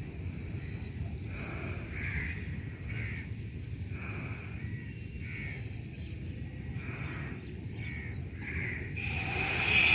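Birds calling over and over, a short harsh caw-like call about once a second, over a steady low rumble. Near the end a loud rushing noise swells up and covers the calls.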